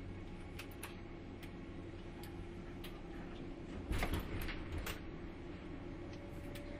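Running noise heard inside a JR 189 series electric train's motor car at low speed: a steady low hum with scattered clicks and knocks from the car, a louder burst of knocks about four seconds in, and a faint steady tone coming in near the end.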